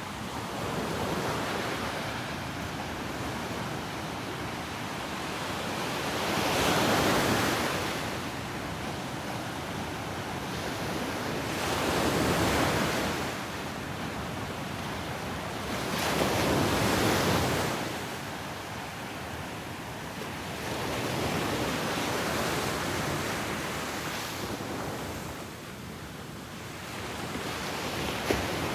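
Ocean waves breaking and washing up a beach, a swell of surf every four to five seconds over a steady rush, with some wind on the microphone.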